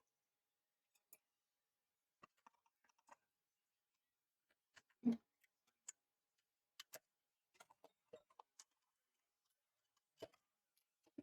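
Small clicks and taps from tools and console parts being handled, irregular and scattered, with one louder knock about five seconds in.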